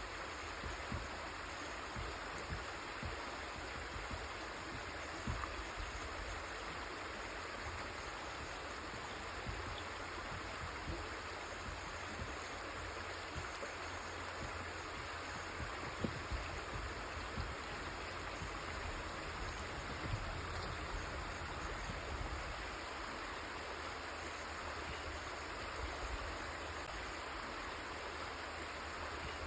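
River water flowing steadily, with a constant rushing and small splashes and gurgles here and there.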